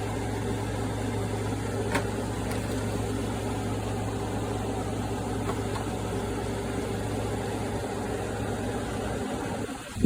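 Window air conditioner running with a steady hum, and a faint click about two seconds in.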